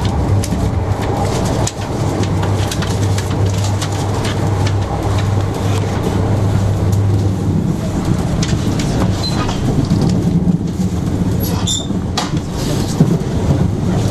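Passenger train running, heard from inside the coach: a steady rumble with a low hum and scattered clicks and rattles from the running gear.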